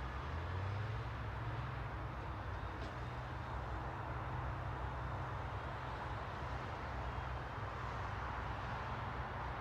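Steady ambient noise: an even hiss centred around 1 kHz over a constant low rumble, unchanging throughout.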